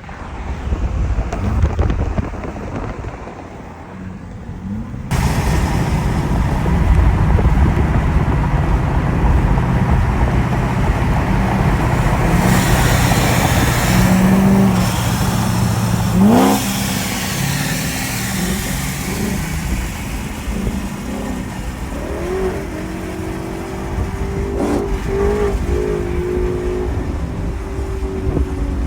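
Supercharged and twin-turbo V8 cars run hard in a highway roll race, engine and wind noise swelling suddenly about five seconds in and staying loud. A short rising sweep comes near the middle, then the noise eases off through the last third as the run ends.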